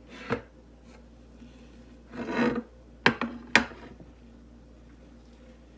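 Close-up eating noises from biting into French toast sticks: a short scrape near the start, a half-second rasping crunch about two seconds in, then two sharp crunches about half a second apart.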